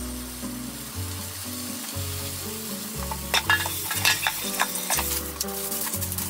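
Nori-wrapped pieces of nagaimo yam sizzling in hot oil in a frying pan, the hiss growing stronger about halfway through. A few sharp taps and rustles in the middle, over soft background music with low notes changing about once a second.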